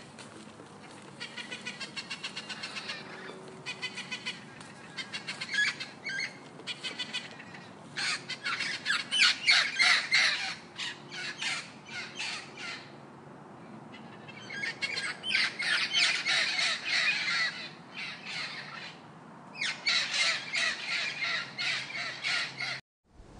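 Birds squawking in quick runs of harsh calls, coming in several bouts with short pauses between, over a steady background hiss.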